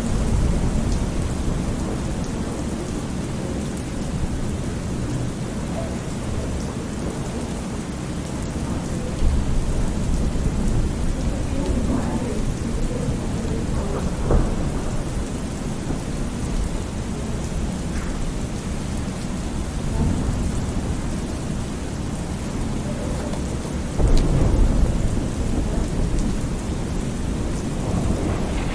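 Thunderstorm ambience: steady rain with low rolling thunder. The rumbles swell about a third of the way in and again near the end.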